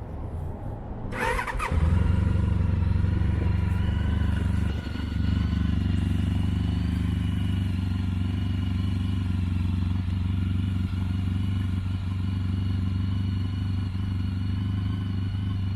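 2005 Honda ST1300's V4 engine, breathing through cut-down Ducati Monster 900 mufflers, cranking on the starter and catching just before two seconds in on a cold start. It then idles steadily, settling a little lower about five seconds in.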